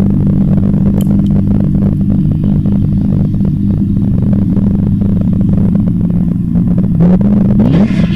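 Loud modified car engine running at low revs with a steady deep note and a rapid series of sharp ticks over it, then revving up near the end.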